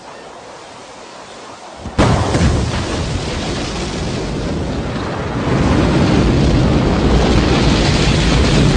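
Rocket engines igniting at liftoff: a sudden loud blast about two seconds in, then continuous heavy exhaust noise that grows louder a few seconds later.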